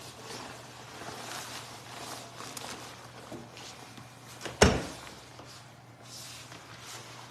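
Rustling and handling noises with a steady low hum underneath, broken by one sharp, loud thump about four and a half seconds in.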